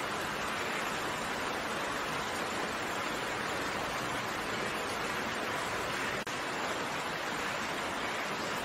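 Steady rain: an even hiss of falling raindrops, broken by a momentary dropout about six seconds in.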